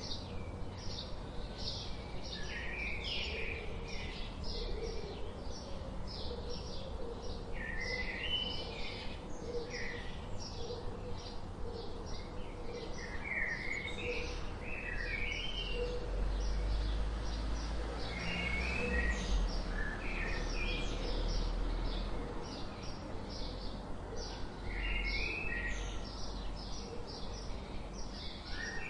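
Birds singing: a rapid, steady stream of short high chirps, with a lower warbled phrase that comes back every few seconds. A low rumble swells in the middle.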